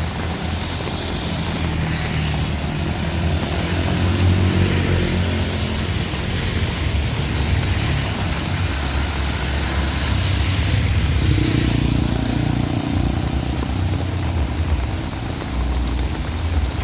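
Heavy rain falling, with a deep rumble underneath that swells about four seconds in and again around ten seconds in.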